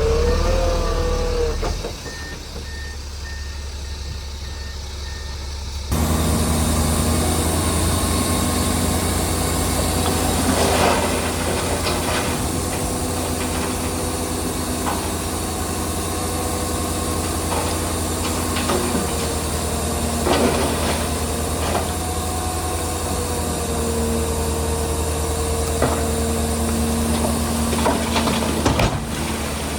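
Diesel engines of a bulldozer and dump trucks running, with a reversing beeper sounding for a few seconds near the start. The engine noise jumps abruptly louder about six seconds in and then runs steadily, with a few sharp clanks.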